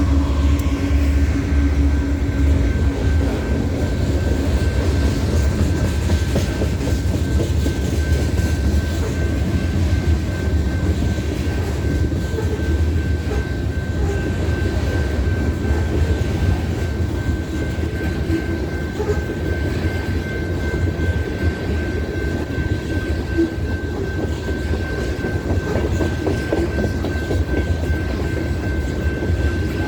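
BNSF freight train's hopper cars rolling past with a steady rumble and clickety-clack of wheels over the rail joints. A horn blast dies away in the first second or so, and a thin steady high tone runs over the wheel noise from about five seconds in.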